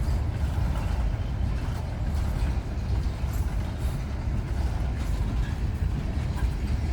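Freight train's cars rolling past, a steady low rumble of steel wheels on the rails.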